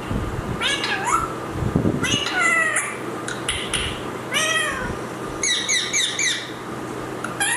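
A parrot calling: a series of rising-and-falling, meow-like squawks, with a quick run of short repeated notes about six seconds in.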